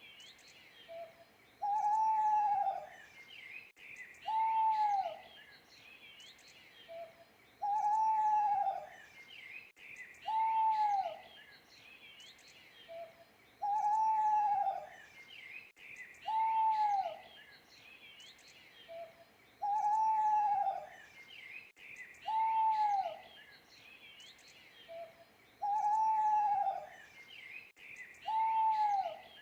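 Owl hooting in a repeating pattern about every six seconds: a short soft note, then a longer hoot that rises and falls, then a shorter one. Small birds chirp in the background throughout.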